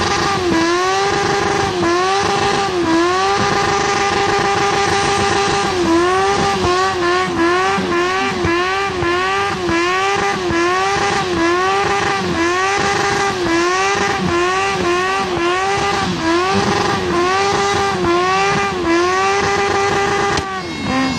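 Car engine revved hard in a rev battle, held high near the top of its range and dropping briefly and climbing back again and again. The holds are longer at first, then the dips come quickly, more than one a second.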